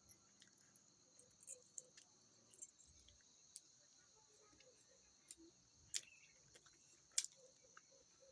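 Faint steady chorus of insects, like crickets, with a few short sharp clicks.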